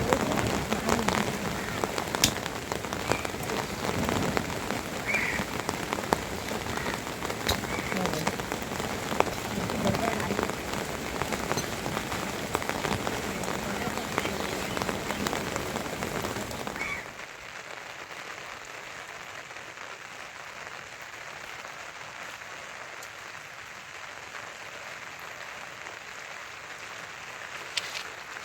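Rain falling, with many close drops striking a surface. About seventeen seconds in it cuts abruptly to a quieter, even rain hiss.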